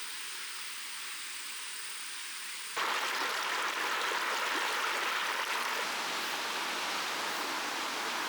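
Steady rushing of running water from a mountain stream. It starts thin and hissy with a faint high whine, then about three seconds in jumps suddenly to a louder, fuller rush.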